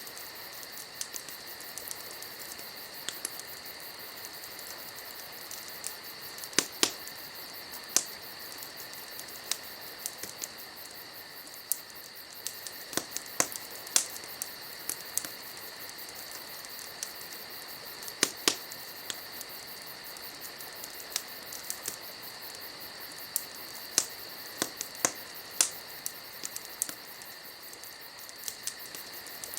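Wood fire crackling, with irregular sharp pops and snaps, the loudest about 7, 8, 14 and 18 seconds in. Crickets chirp steadily behind it.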